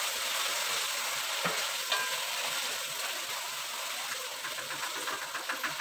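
Chilli sambal and sliced onions sizzling in a wok while a wooden spatula stirs them, with two light knocks about a second and a half and two seconds in, and a run of small quick ticks near the end.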